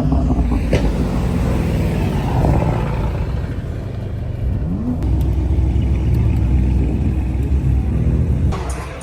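Car engine running, with dense low rumble and a brief rise in pitch about four and a half seconds in; the sound changes abruptly near the end.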